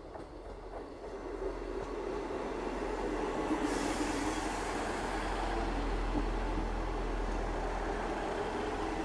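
A train running past, its noise swelling over the first couple of seconds and then holding steady, with a brief hiss about three and a half seconds in.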